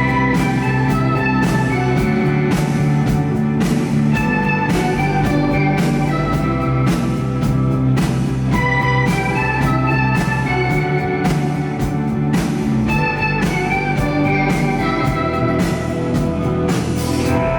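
Live band playing an instrumental passage without vocals, heard loud through the hall, with sustained chords and regular sharp hits.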